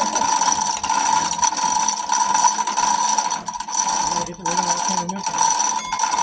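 Ratchet tool clicking rapidly and continuously, with a couple of brief breaks in the second half.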